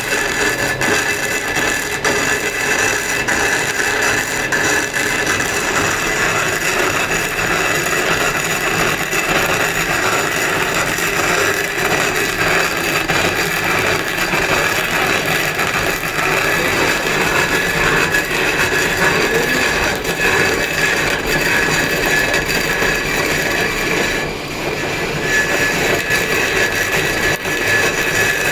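A power tool runs steadily on stone with a constant high whine. It briefly eases off about 24 seconds in.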